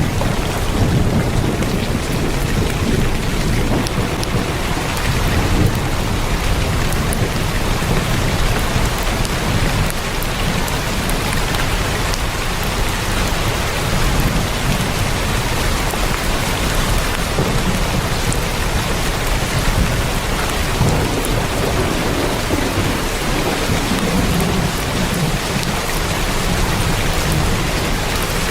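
Heavy rain drumming steadily on a tin roof, a dense patter of drops, with a low rolling rumble of thunder underneath that swells and fades.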